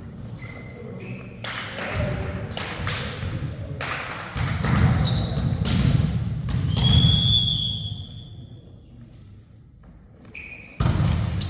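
Indoor volleyball rally: ball impacts and short shoe squeaks on the hall floor among players' shouts, with a longer high-pitched squeal about seven seconds in.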